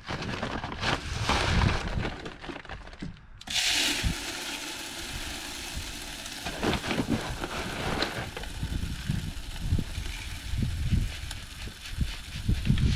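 Bird seed being handled and poured into a hanging bird feeder: irregular scraping and knocks, then about three and a half seconds in a steady rattling hiss of seed running in starts suddenly, with occasional knocks.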